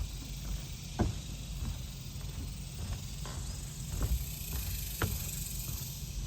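Footsteps of a person walking in running shoes, about one step a second, over a steady high hiss.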